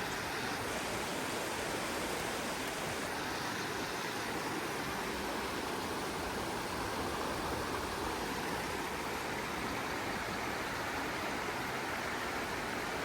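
Steady rushing of falling water from a waterfall, an even unbroken roar.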